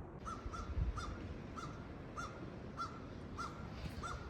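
A bird calling in a run of about eight short, evenly spaced calls, somewhat under two a second, with a low thump about a second in.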